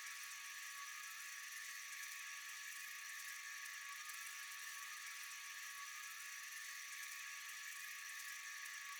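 Steady, high-pitched chorus of night insects, an even shrill hiss with a few fixed tones, unchanging throughout.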